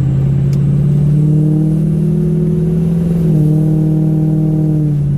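Diesel pickup truck engine running at a steady speed, a droning tone that steps up slightly in pitch about three seconds in.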